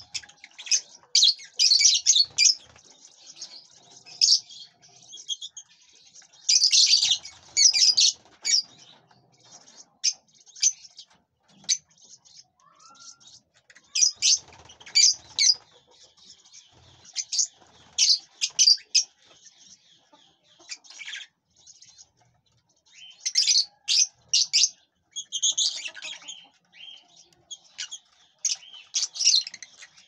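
Small birds chirping: clusters of short, high, rapid calls every second or two, with brief gaps between.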